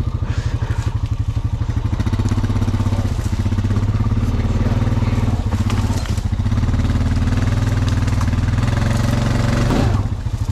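Honda Rancher ATV's single-cylinder engine running steadily, a fast even low pulsing.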